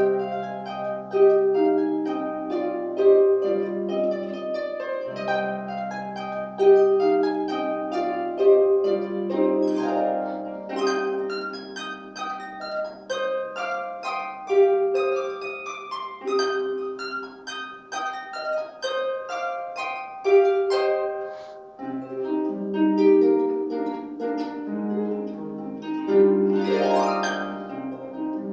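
Solo harp playing a plucked melody over ringing bass notes, with a fast rising glissando near the end.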